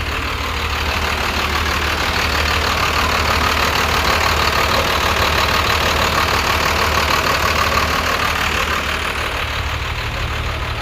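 5.9 Cummins turbo-diesel inline-six in a 1993 Fleetwood Bounder RV idling steadily and smoothly.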